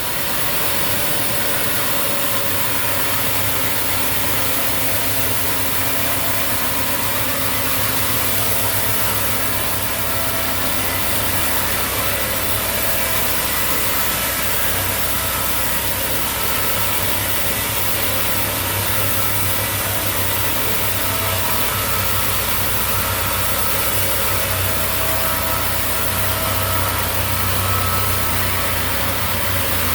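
Sawmill machinery running steadily: an unbroken motor drone with a strong high hiss.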